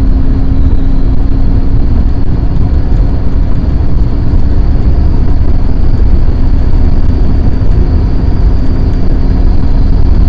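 A car being driven fast in a pursuit, heard from inside: loud, steady engine and road noise with a low hum.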